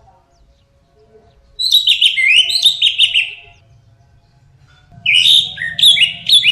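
Orange-headed thrush singing: two phrases of rapid, sliding, warbled notes, one starting about a second and a half in and another about five seconds in, with a pause between.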